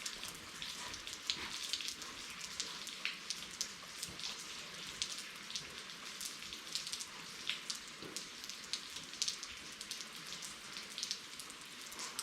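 Steady rainfall: an even hiss dotted with many sharp individual drop impacts.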